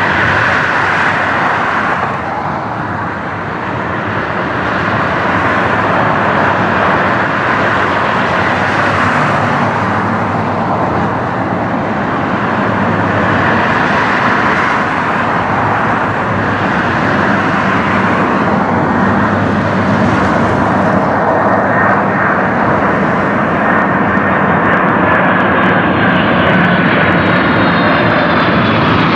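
Jet airliner's engines running loud and steady as the aircraft moves on or near the runway. Near the end a whine falls in pitch as it passes.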